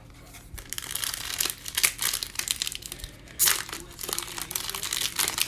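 Foil trading-card pack being handled and torn open, the wrapper crinkling in a run of irregular crackles, loudest about three and a half seconds in.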